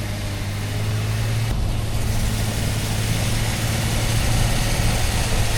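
A vehicle's engine running with a steady low drone under a broad rushing noise, as in a truck driving along.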